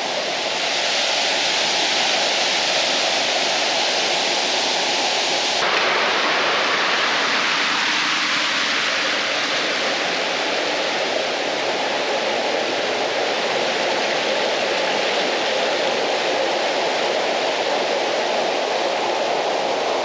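Waterfall rushing loudly and steadily. The tone of the rush changes abruptly about six seconds in.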